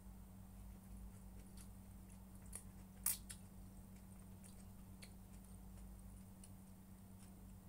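Faint, scattered clicks and taps of food being cut and handled at a table, with one sharper click about three seconds in, over a low steady hum.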